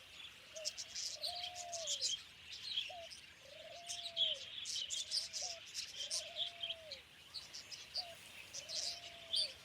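Bird calls: a low, arched cooing call repeated about eight times, some short and some nearly a second long, over a scatter of high chirps and twitters from small birds.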